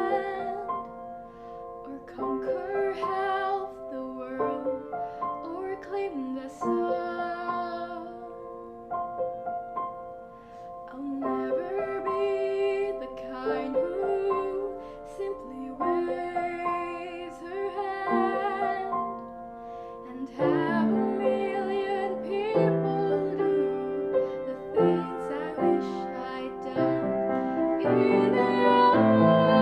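Live show-tune music: a woman singing over piano accompaniment, the accompaniment growing fuller and louder about two-thirds of the way through.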